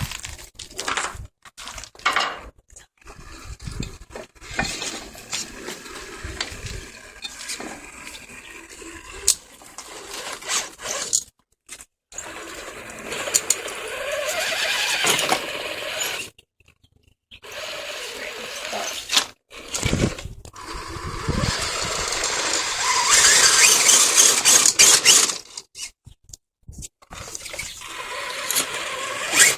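Axial SCX10 radio-controlled crawler truck driving over rough ground: uneven scraping, crunching and clicking. There are two longer, louder noisy spells, and the sound breaks off abruptly several times.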